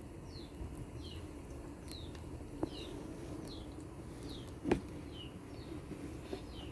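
A small bird chirping over and over, short high falling notes about once or twice a second, over a low steady background, with two light knocks, the louder one near the end.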